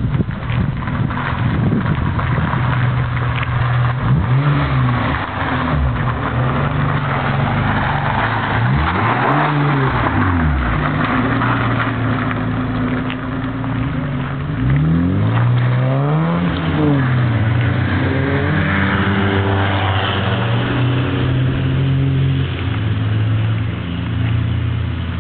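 Mazda MX-3's swapped-in 2.5-litre V6 engine revved several times, each rev sweeping up in pitch and dropping back, then pulling away and running at a steadier note.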